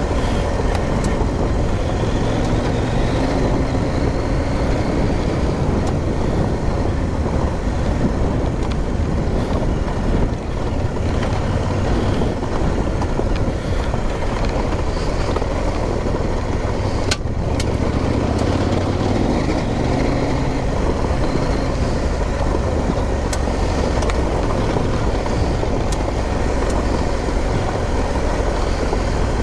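Motorcycle engine running under way on an off-road track, its note shifting up and down with the throttle, over a steady rush of noise.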